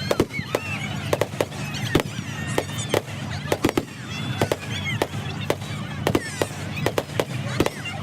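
Fireworks going off: a rapid, irregular run of sharp bangs and cracks, several a second, with short high tones sliding up and down between them.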